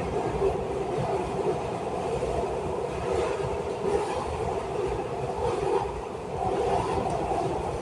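MARTA Breda CQ312 railcar running along the track, heard from inside the car: a steady drone of wheels on rail and running gear, with a few faint clicks.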